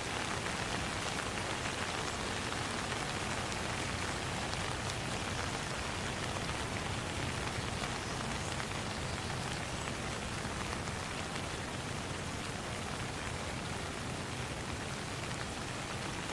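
Steady rain falling, a dense even hiss of drops with fine pattering ticks throughout.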